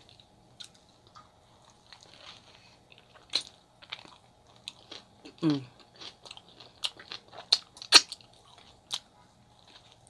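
Close-miked mouth sounds of someone chewing a chicken gyro in pita: scattered soft wet clicks and smacks with short quiet gaps, and a sharper click about eight seconds in. There is a brief low vocal sound, falling in pitch, about five and a half seconds in.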